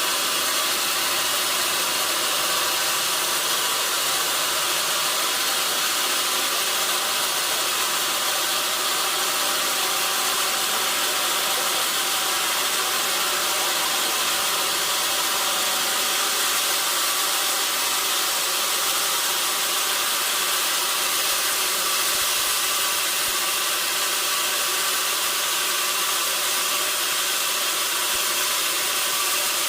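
Sawmill saw running steadily: an even, unbroken hiss with a faint steady whine beneath it.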